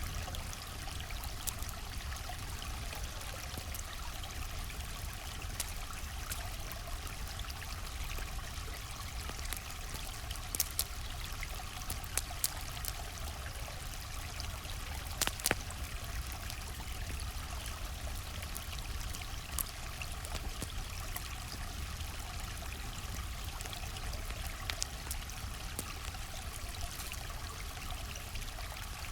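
River water flowing steadily, with a few sharp pops and crackles from a campfire scattered through it.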